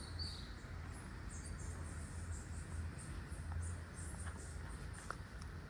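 Outdoor garden ambience: faint, scattered high-pitched chirps of insects over a steady low rumble.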